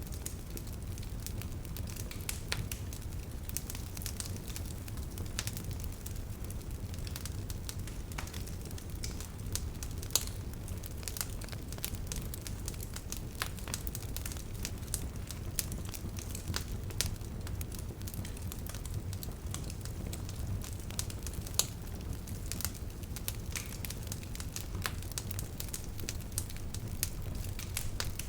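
Wood bonfire burning, with frequent sharp crackles and pops over a steady low rumble.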